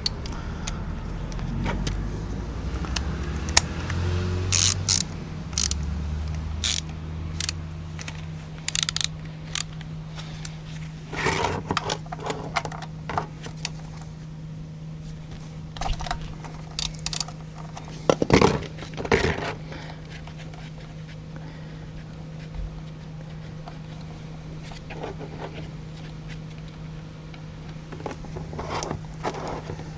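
Metal tools clinking and scraping as a 17 mm drain bolt is undone on a motorcycle's sump, in short scattered clicks with louder clusters around the middle, over a steady low hum.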